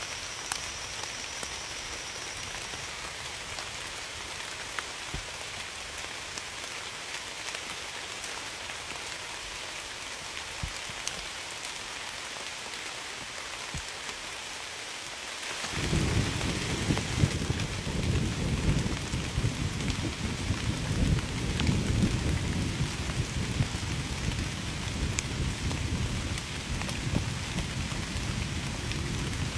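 Steady rain falling. About halfway through, a long low rumble of thunder comes in and keeps going, louder than the rain.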